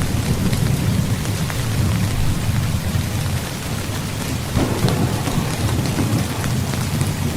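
Steady heavy rain with a continuous low rumble of thunder beneath it; the rumble swells briefly about two-thirds of the way through.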